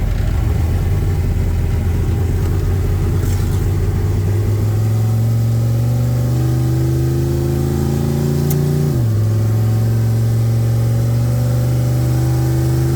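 Carburetted Camaro engine pulling under load while the car drives. Its pitch climbs slowly, drops sharply once about nine seconds in as the transmission shifts up, then climbs again.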